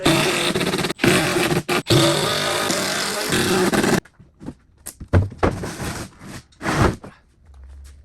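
A power tool runs in three bursts for about four seconds, then stops suddenly; a few short knocks and handling sounds follow.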